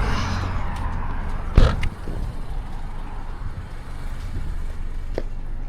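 Steady low rumble of a car running, with one sharp thump about a second and a half in.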